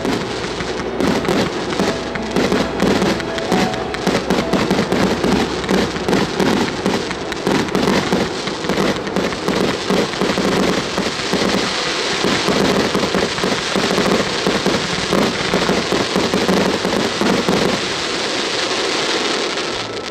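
Ground-fired fireworks crackling and popping: a dense, rapid stream of many small sharp bursts over a hiss. It settles into a steadier hiss over the last several seconds and stops just before the end.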